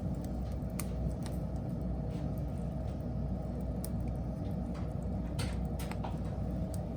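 Wood fire burning: a steady low rumble of flame with scattered sharp crackles and pops from the burning wood, several coming close together around the middle and later part.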